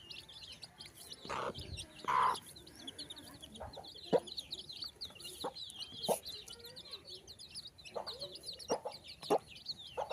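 Young parrot-beak Aseel chickens clucking in short separate calls, the loudest about two seconds in. Rapid high chirping runs behind them throughout.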